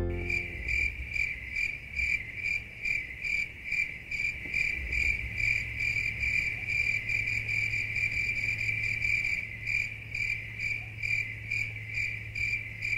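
Crickets chirping in a steady, even rhythm, about two to three high chirps a second, with a low steady hum underneath.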